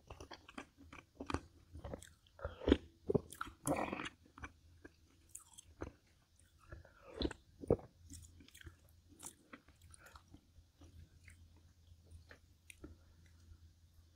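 Close-miked eating: a person chewing and biting food, with a few louder, crunchier bites about three seconds in and again around seven seconds, then softer chewing.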